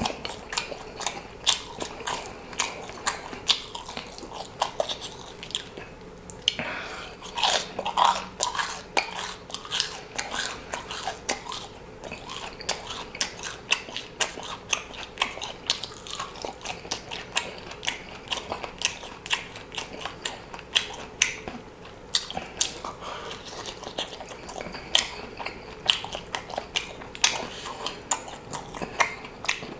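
A person eating close to the microphone: continuous chewing and biting with many quick, sharp crunching clicks and smacks at an irregular pace.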